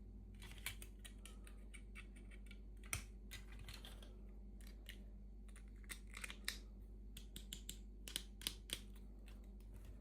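Faint, irregular clicks and crinkles of small plastic toy pieces and packaging being handled, in clusters, with a few sharper taps.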